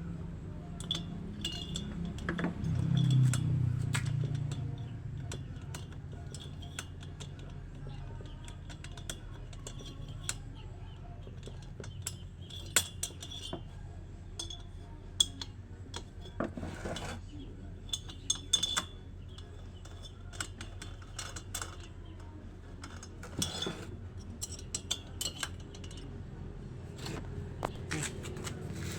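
Light metallic clinks and taps at irregular intervals, from small hand tools and parts being handled during a DIY repair. A brief low hum swells about three seconds in.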